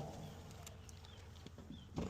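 Package air-conditioning unit running quietly after a loose part was secured: a faint, steady low hum with a few light ticks.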